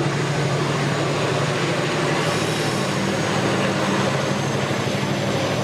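A train running past at close range, a steady loud noise with a low, even hum.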